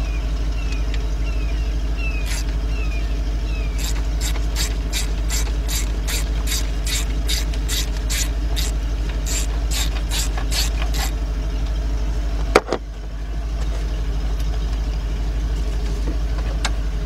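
A 3/8-drive ratchet turning a bolt out through a long extension, clicking at an even pace of about three clicks a second for several seconds. A single sharp knock follows near the end, over a steady low hum.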